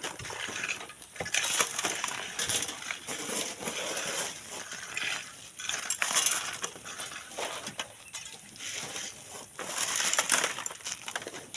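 Sand and gravel being dug and shovelled, in irregular scraping strokes with stones clinking.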